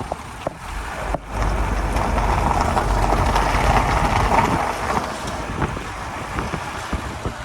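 The 1991 Nissan Terrano D21 being driven: engine and road noise with wind rushing over the microphone. The noise swells about a second in and eases off again past the middle.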